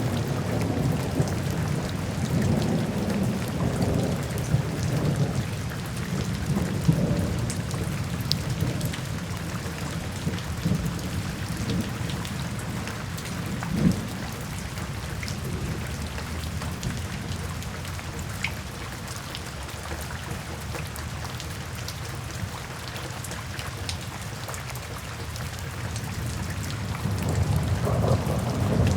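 Steady rain falling into puddles and standing water, with scattered individual drops, under rumbling thunder. The thunder is heaviest in the first several seconds, fades to a low background through the middle, and builds again near the end.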